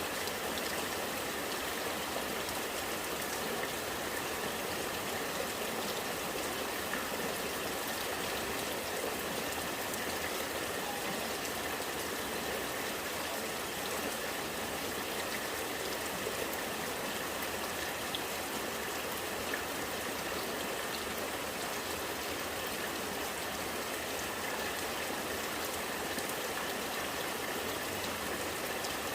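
Rainwater running and gurgling steadily, with rain falling in fine drops.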